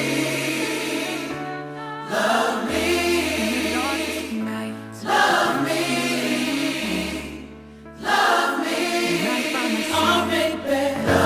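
Background music: a choir singing over held low notes, with a new phrase swelling in every three seconds or so.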